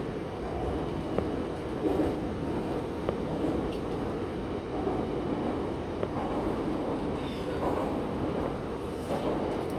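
Shanghai Metro Line 9 train running between stations, heard from inside the car: a steady rumble of wheels and running gear, with a few faint clicks.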